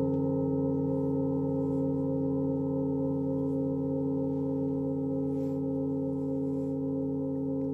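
Singing bowls ringing on, several sustained overlapping tones with a slow wavering shimmer, slowly fading.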